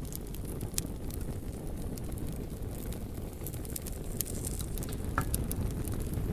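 A fire crackling, with scattered sharp pops and snaps over a steady low rumble of burning.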